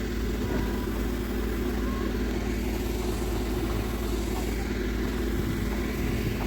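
Locomotive standing with its machinery running: a steady, even low hum that neither rises nor falls.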